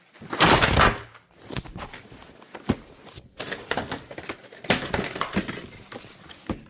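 Handling noises: a loud rustling burst just after the start, then a run of irregular clicks and light knocks.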